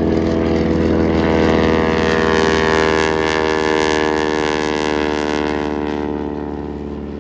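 Propeller airplane flying past at an air show: a loud engine-and-propeller drone that peaks about three to four seconds in. Its pitch drops slightly as it passes, and it then fades away.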